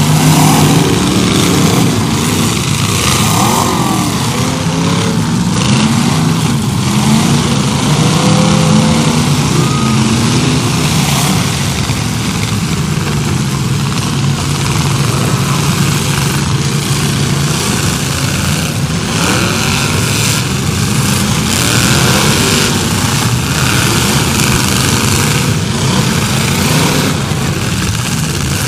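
Several demolition derby cars' engines running and revving hard together, the pitch rising and falling, with a few sudden knocks.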